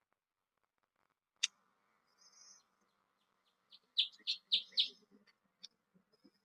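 Northern cardinal calling and singing: a single sharp high chip about a second and a half in, then a quick run of four loud, short notes, about four a second, past the middle, with a few fainter notes after.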